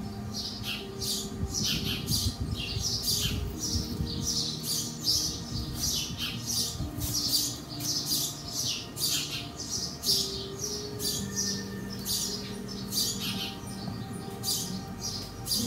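Small birds chirping rapidly and continuously, short high-pitched calls coming about two to three a second.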